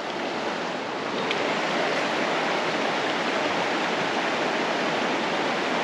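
Creek water rushing steadily past, a full, even flow from a stream running high after rain; it swells a little over the first second, then holds steady.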